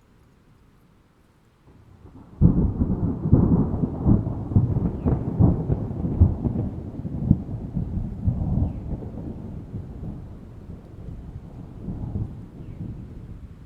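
Thunder: a clap breaks suddenly about two seconds in and rolls on as a long crackling rumble that slowly fades away.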